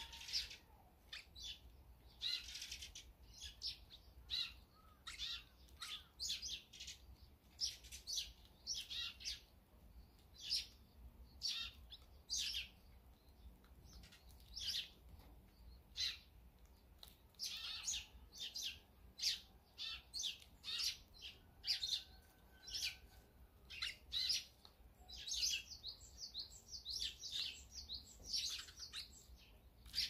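Small songbirds chirping: many short, high chirps in quick, irregular runs, busiest near the end.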